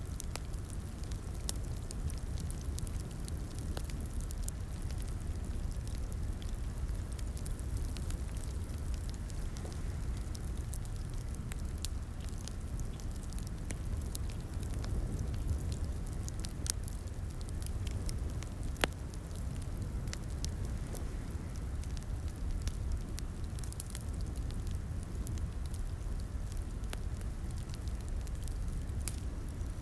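Wood fire crackling in a fireplace: scattered sharp pops and snaps over a steady low rumble of flame, with one louder pop a little past the middle.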